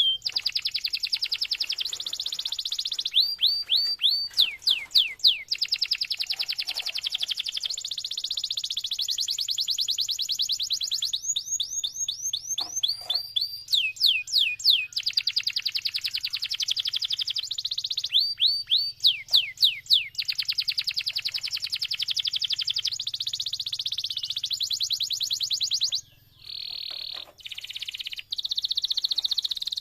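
Domestic canary singing a long, unbroken song of rapid trills and runs of repeated falling whistled notes, with a brief break near the end before it carries on.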